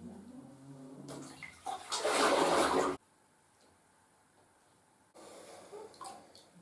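Water running and gushing, growing louder, then cut off abruptly about three seconds in; a shorter, quieter rush of noise follows near the end.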